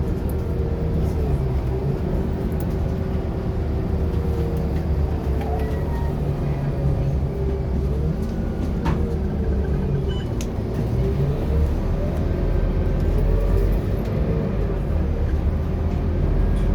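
Diesel engine of a Scania K230UB city bus running as the bus drives, a steady low rumble whose pitch rises and falls with the revs.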